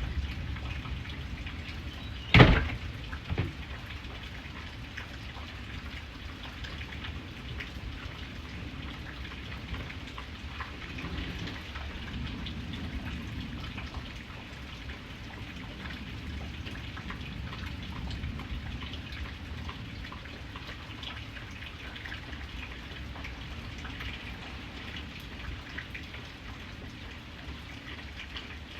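Steady rain with drops pattering and ticking. A single loud sharp knock comes about two seconds in, followed by a smaller one a second later.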